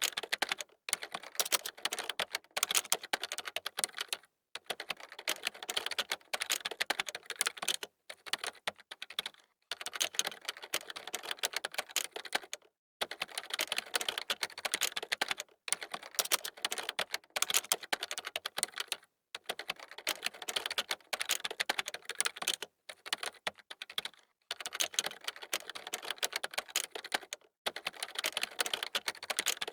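Computer keyboard being typed on quickly: fast runs of key clicks lasting a few seconds each, broken by short pauses.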